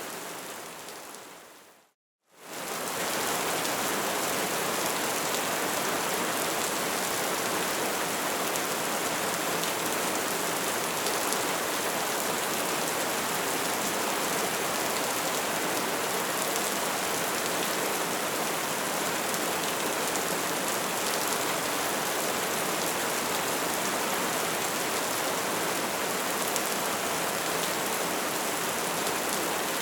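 Bonfire burning with a dense, steady crackle and hiss. About two seconds in it fades out to a moment of silence, then comes straight back up.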